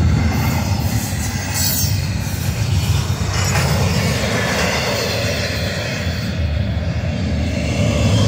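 Union Pacific double-stack container train passing at close range: the steel wheels of its loaded well cars rolling over the rails with a steady rumble.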